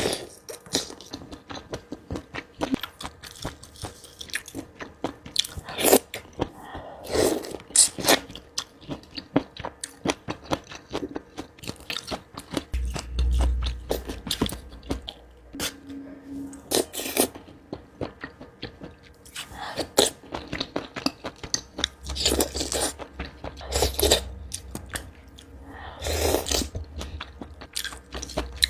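Close-miked eating sounds: a person chewing and biting seafood (squid and green mussels), with many irregular short crunches and smacks, a louder one every second or two.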